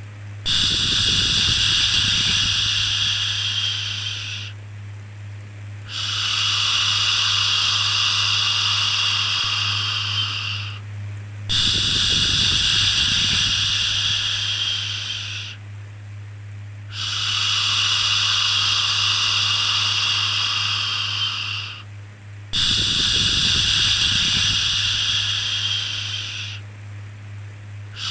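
Rhythmic shushing, a long 'shhh' repeated five times, each lasting about four seconds with a short pause between, over a steady low hum.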